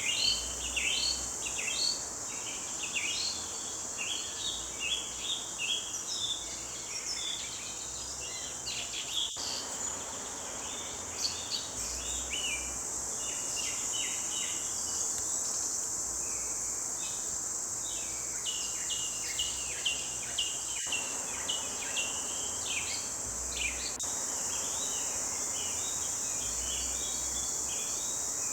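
Forest birds singing, a busy chorus of short chirping phrases one after another, over a steady high-pitched drone of insects.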